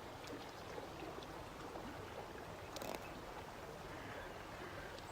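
Faint, steady flowing river water, with a couple of small clicks about three seconds in.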